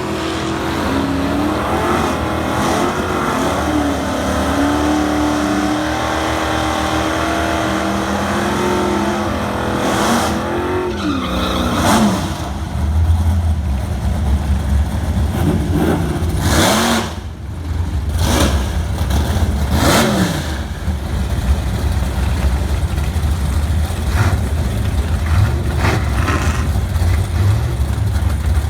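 Big-block V8 of a Barracuda drag car running loud. The engine note holds fairly steady for about twelve seconds, then gives way to a heavy, hard-accelerating rumble. The rumble has two brief drops near the middle.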